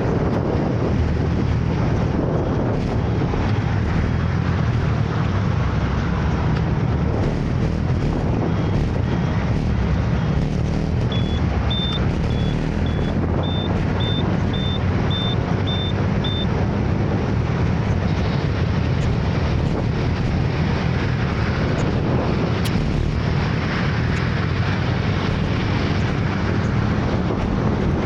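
Steady scooter ride noise, with the small engine and rushing wind on the microphone. About halfway through comes a row of about ten short high beeps, roughly two a second.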